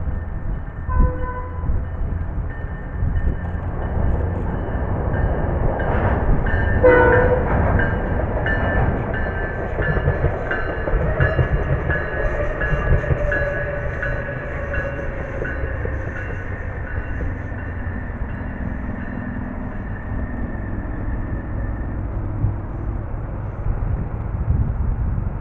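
SMART diesel multiple-unit train running across the bridge and slowing, with a short horn blast about seven seconds in and a tone that slowly falls in pitch as it decelerates. A steady low rumble of wind on the microphone runs underneath.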